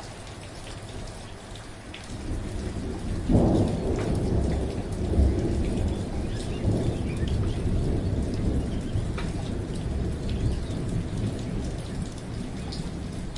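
Steady rain with scattered individual drops, and a roll of thunder that swells about two seconds in, peaks a moment later and rumbles on, slowly fading.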